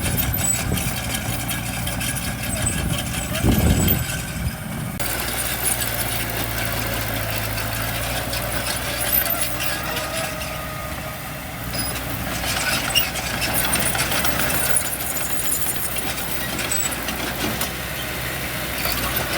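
Diesel engines of heavy construction machinery, dump truck or bulldozer, running steadily, with a louder surge about three and a half seconds in.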